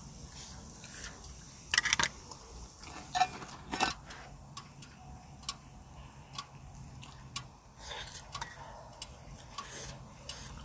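Scattered light clicks and taps of small objects being handled, irregular and a second or so apart. The loudest come about two and four seconds in, over a faint steady background.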